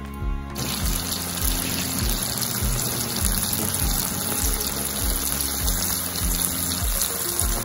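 Ground spice paste sizzling as it is sautéed in oil in a frying pan, a steady hiss that starts about half a second in, under background music with a steady beat.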